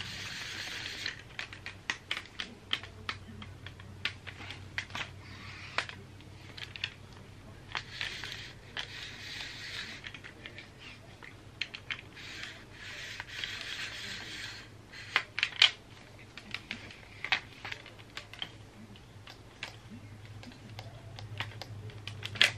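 Irregular clicks, taps and rustling close to the microphone as something is handled and fitted into place by hand, over a low steady hum.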